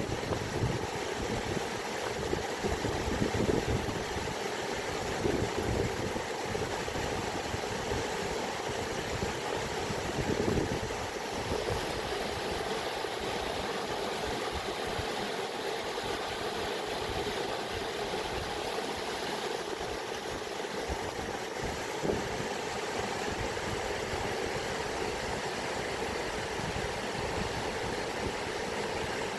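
Steady rushing of running water, a continuous noise with a low rumble underneath.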